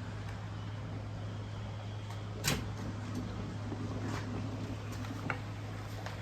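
A few sharp clicks of marbles on a handmade marble run, the loudest about two and a half seconds in, over a steady low hum.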